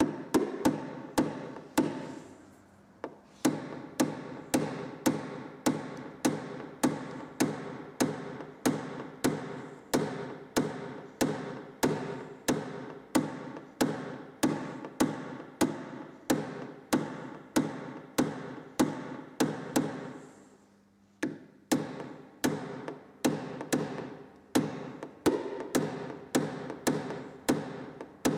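Light, even hammer taps on a car's sheet-metal body panel, about two strikes a second, each with a short metallic ring: the panel being tapped down during paintless hail-dent repair. The tapping stops briefly about twenty seconds in, then resumes.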